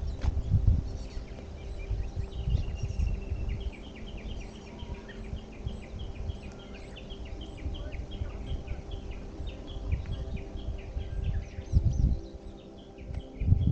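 A songbird singing a long run of quick repeated notes, about four a second, after a short held opening note. Low rumbling thuds and steady forest background lie underneath.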